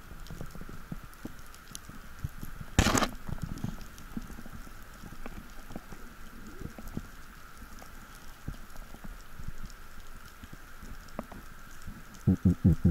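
Underwater ambience: a steady crackle of tiny clicks under a faint steady hum. A sudden loud rushing burst comes about three seconds in, and four quick low thumps come near the end.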